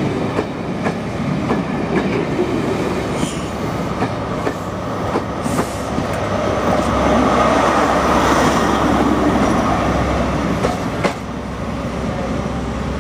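Network Rail's New Measurement Train, an HST set, passing at close range, its wheels clattering over rail joints. Midway the Class 43 diesel power car goes by and the sound swells, then drops suddenly near the end as the train draws away.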